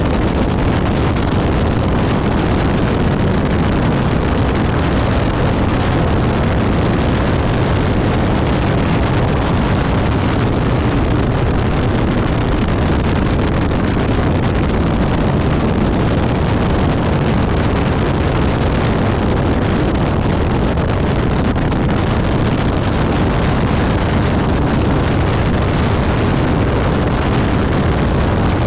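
Caterham 620R's supercharged 2.0-litre four-cylinder engine running at track speed, heard from the open cockpit under loud, steady wind buffeting on the microphone.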